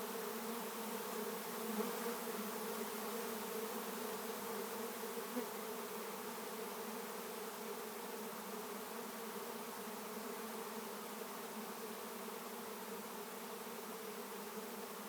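A honey bee swarm buzzing in the air around the microphone: a steady, dense hum of hundreds of bees flying, the swarm described as pretty turbulent as it settles into a capture box.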